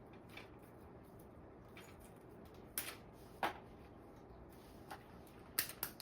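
A few sharp clicks and taps of hands working on the e-bike's taped wiring: two single clicks about halfway through, then a quick run of three near the end.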